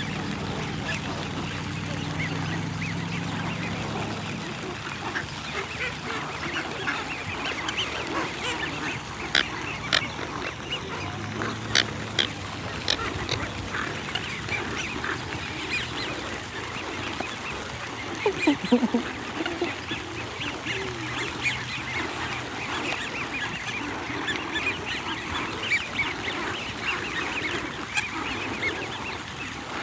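A flock of wild waterfowl, geese and ducks, calling continuously in a dense chorus of overlapping calls, with a few louder calls standing out.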